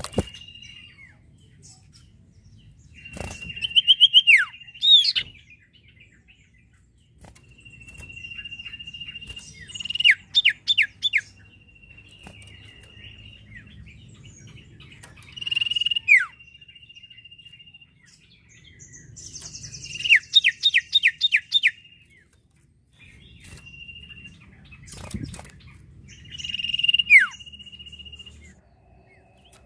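Small songbird (sirtu) calling over and over: each phrase is a long, steady high whistle that breaks into a quick run of down-slurred chirps, repeated about every five or six seconds. A couple of brief knocks are heard near the start and about 25 seconds in.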